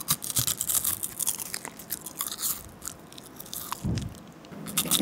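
Close-miked biting and chewing of a thin, flat square sheet of edible coloured paper: a dense run of small crunchy crackles that thins out about three seconds in and picks up again near the end.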